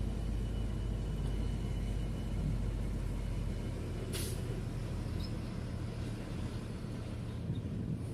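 Heavy diesel engine of construction machinery running steadily with a low drone, and a short hiss of air about four seconds in.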